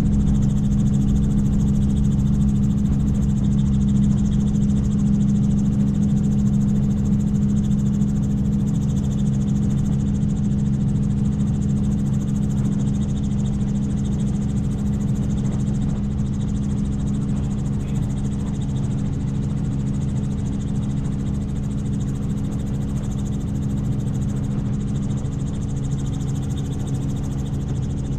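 Helicopter in flight: the steady drone of the engine and rotor, a low hum made of several held tones with a hiss on top, unchanging throughout.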